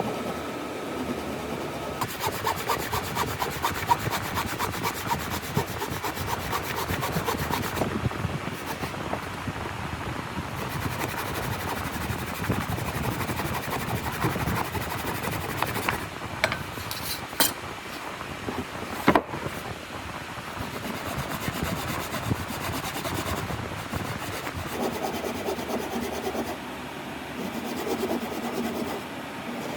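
Wood being scraped and rubbed by hand in continuous rough strokes, with two sharp clicks a little past the middle.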